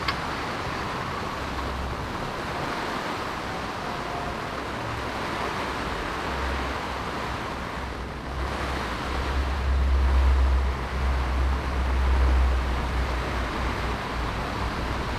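Heavy rain falling steadily, a dense even hiss. A deep low rumble swells up about halfway through and eases off near the end.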